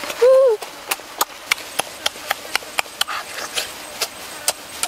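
Close-up eating sounds: wet lip smacks and chewing clicks, two or three a second, from someone eating boiled duck egg dipped in chili sauce. Near the start there is a short voiced 'mm' that rises and falls in pitch.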